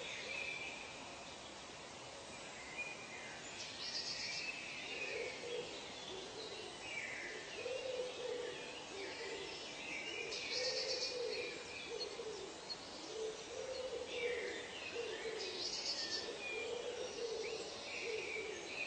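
Birds calling in a forest ambience: from about five seconds in, a low call repeats as a run of short notes, under higher chirping from other birds and three brief high, buzzy bursts.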